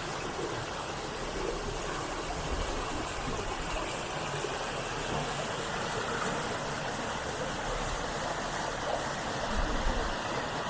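Steady rushing of running water, with a low rumble that swells and fades.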